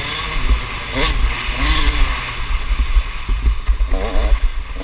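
Motocross bike engines revving, their pitch rising and falling, over a heavy, uneven low rumble.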